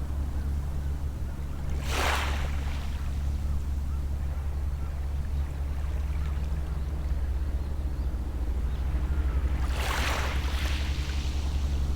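Steady low engine drone from a distant boat, with small waves washing onto the shore twice, about two seconds in and again near the end.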